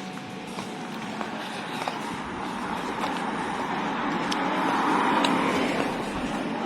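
A motor vehicle passing by, its noise swelling to a peak about five seconds in and then fading.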